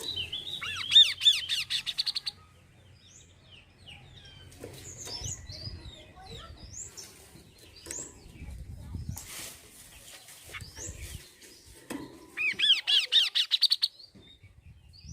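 Kaso-kaso bird song: two loud runs of fast repeated chirping notes, one at the start and one near the end, with scattered short chirps between them.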